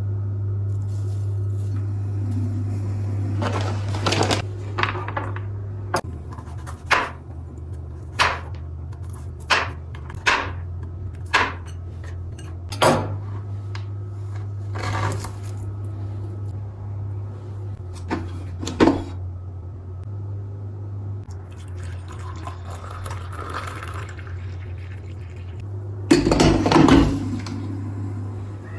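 Dishes and cutlery knocking and clinking as they are handled and set down, about a dozen separate knocks, over a steady low hum. A louder, longer clatter comes near the end.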